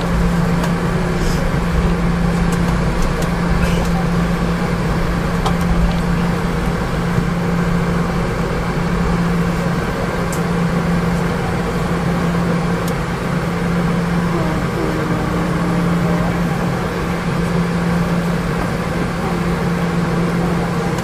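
Steady cabin noise inside a Boeing 717-200: a constant engine and airflow roar with a steady low hum.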